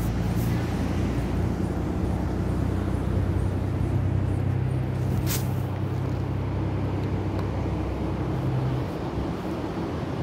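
A vehicle engine idling, a steady low hum that cuts out about nine seconds in. There is a single sharp click about five seconds in.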